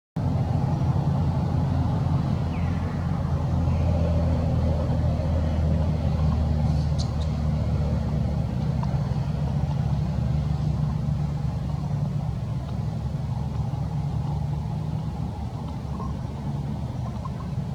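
A motor vehicle's engine running steadily at idle, with a low, even hum.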